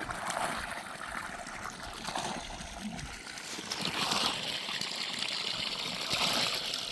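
Water running and trickling through a farm irrigation channel, swelling a little about four and six seconds in.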